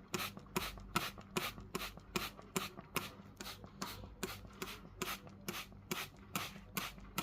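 Hand spray bottle squirted over and over, short hissing sprays at about two and a half a second, misting a cockatiel for its bath.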